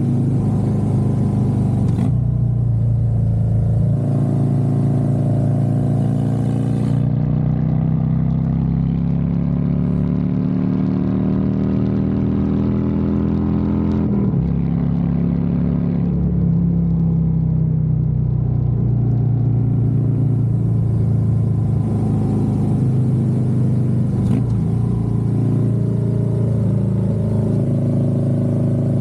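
Harley-Davidson Road Glide's V-twin engine under way. Its pitch climbs steadily for about twelve seconds as the bike pulls, drops off as it slows, then holds steady, with wind rushing over the bike at the start and the end.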